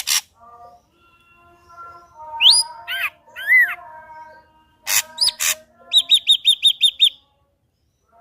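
Ashy drongo singing a varied, mimicking phrase. It opens with a harsh rasping double note, gives swooping whistled notes about three seconds in and two more harsh notes near five seconds, then ends with a quick run of about eight clear, evenly spaced notes.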